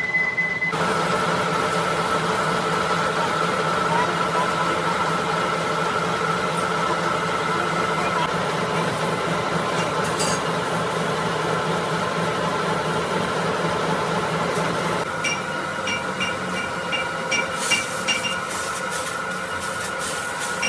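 Workshop machine tool running steadily with a steady whine while machining a compressor crankshaft. About 15 s in the sound changes and a regular light ticking starts.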